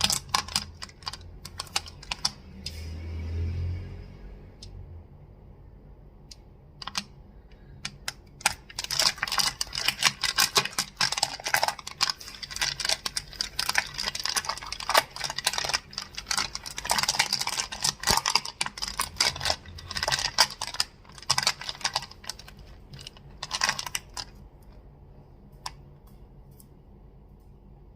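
Crystals being tapped and clacked together in sharp clicks. They start as scattered clicks, turn into a dense run of rapid clicking about a third of the way in, and thin out to a few taps near the end.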